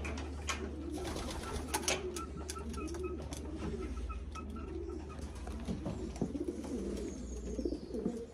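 Racing pigeons cooing over and over, overlapping low rising-and-falling coos, with a few sharp clicks in the first two seconds.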